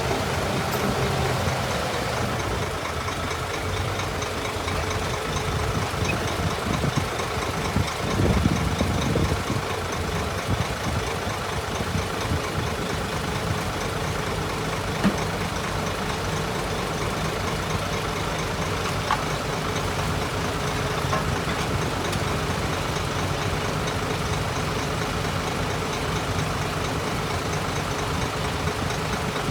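Heavy earthmoving machine's diesel engine running steadily, with a louder stretch about eight seconds in and a single sharp knock around fifteen seconds in.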